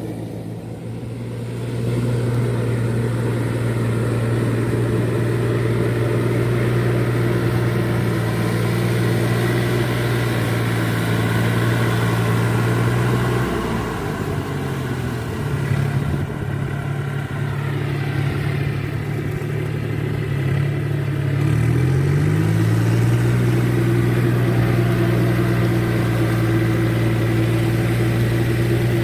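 Four-wheel paddy-field tractor's engine running steadily. Its pitch drops about halfway through, then climbs back up in a few quick steps a little later.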